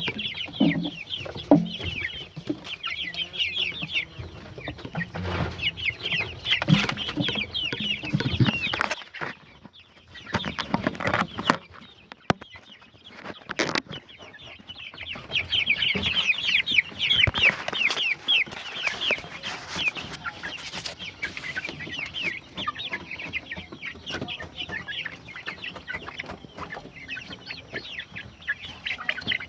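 A flock of chickens calling together, many short high calls overlapping into a constant chatter. The calls thin out for a few seconds in the middle, where a few sharp knocks are heard.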